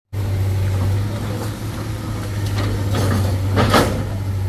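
A large diesel engine running steadily with a constant low hum, with a few short noisy bursts over it near the end.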